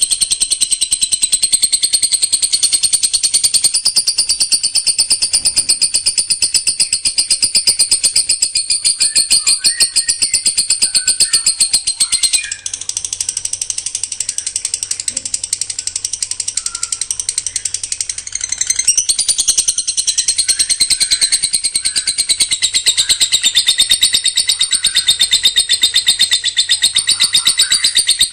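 Songbird singing a dense, very fast high-pitched trill of rapid repeated notes, the 'tembakan rapat' burst style prized in contest birds, going on without a break; it softens for several seconds in the middle, then comes back at full strength.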